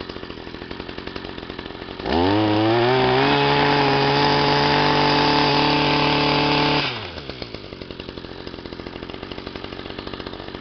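Stihl MM 55 Yard Boss tiller's two-stroke engine, still cold after a cold start: it idles with a fast pulsing beat, is revved up about two seconds in and held at high speed for about five seconds, then drops back to idle.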